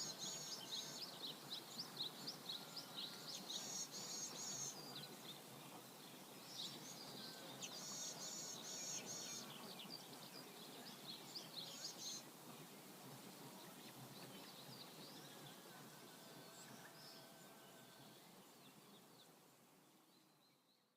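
Flowing river water with small birds chirping in quick repeated bursts, the chirping busiest in the first half. The whole sound fades out near the end.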